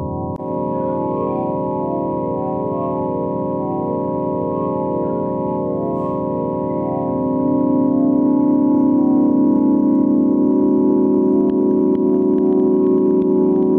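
Sustained organ-like electronic drone of several held tones with a slow pulsing shimmer, growing louder about seven seconds in, presented as the 'sound' of Jupiter's moon Amalthea.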